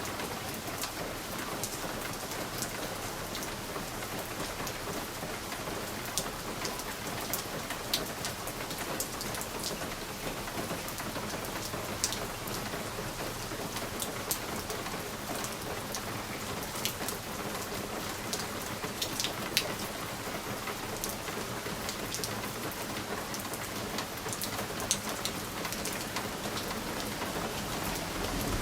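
Steady rain falling on a window, with individual drops ticking sharply against the glass at irregular moments.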